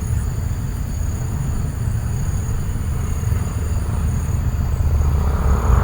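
Low, fluttering rumble of wind buffeting the microphone, with faint steady high-pitched tones above it.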